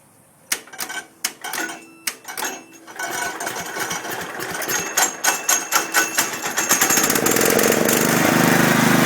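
A few separate clicks and knocks, then a rapid, irregular clatter as the cold 1972 IH Cub Cadet 128's single-cylinder engine comes to life. From about seven seconds in it runs steadily and louder.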